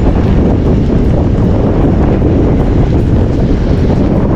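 Strong blizzard wind buffeting the camera microphone: a loud, steady low rumble.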